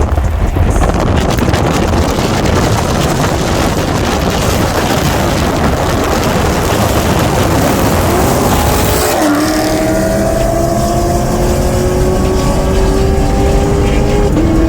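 Car at high speed on a highway, a dense roar of engine, wind and road noise. About nine seconds in, the engine note rises briefly and then drops. It settles into a steady hum that falls slowly as the car eases off.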